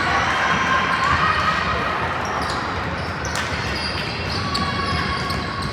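Basketball game sounds in a gym: the ball bouncing on the court, short sneaker squeaks and spectators' voices, echoing in the hall.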